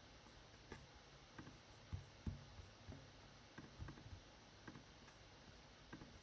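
Faint, scattered clicks of a computer mouse at irregular intervals over low room tone.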